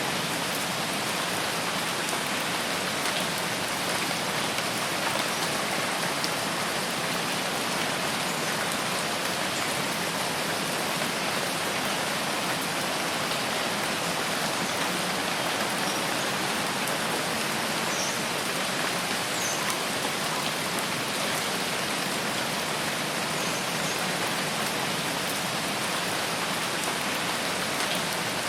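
Steady rain falling, an even unbroken hiss, with a few faint high chirps about two-thirds of the way through.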